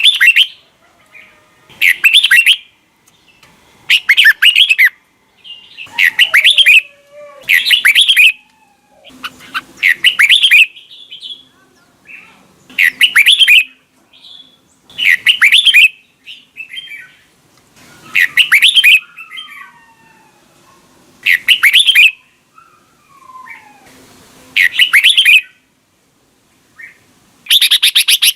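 Red-whiskered bulbul singing: short, loud phrases of rapid whistled notes, repeated every two to three seconds, with fainter calls between them.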